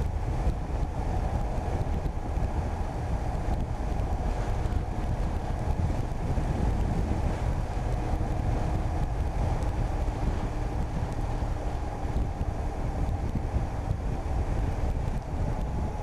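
Wind buffeting the microphone of a moving motorcycle, a steady low rumble, with the motorcycle's engine running faintly underneath.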